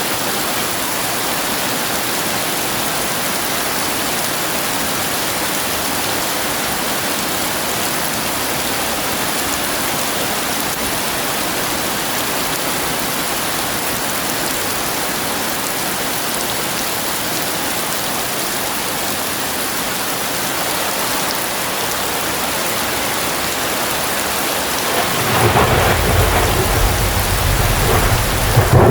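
Heavy rain pouring steadily. Near the end a deep rumble of thunder rolls in and builds.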